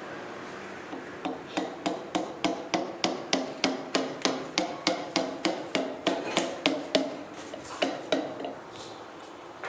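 Hammer blows on metal in quick succession, about three a second, each with a short ringing tone. The blows start about a second in and thin out to a last few near the end.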